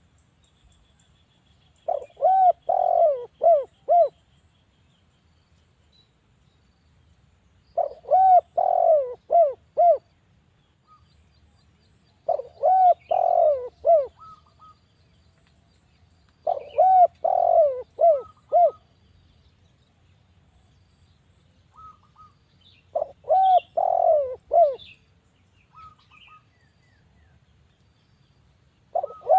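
Spotted dove (derkuku) cooing: five phrases of four or five low coos, each about two seconds long, repeating roughly every five seconds. Faint high chirps of other small birds sound between the phrases.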